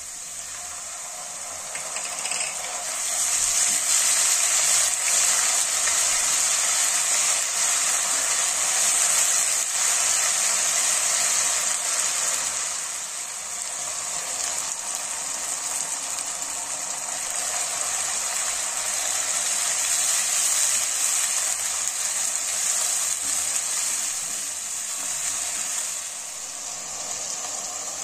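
Onions and ginger-garlic paste frying hard in hot oil in a nonstick pan: a steady, crackling sizzle that grows louder about three seconds in and softens a little about halfway, as tomato purée goes in.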